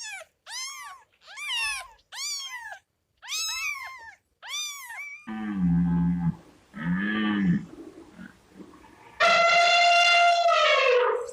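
A series of animal calls: six short, high-pitched calls that rise and fall, then two lower calls, then one long, loud call near the end.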